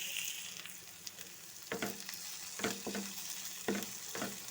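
Onion and spice masala sizzling steadily in oil in a pan, while a cooking utensil stirs it, scraping the pan in about five short strokes.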